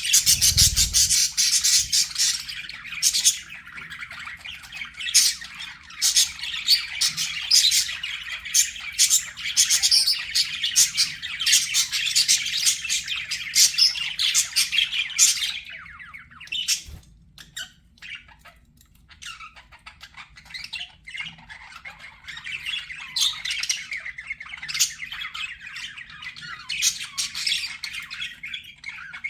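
Budgerigars chattering and warbling: fast chirps, squawks and twitters that thin out for a few seconds around the middle, then pick up again. A short low thump comes about half a second in.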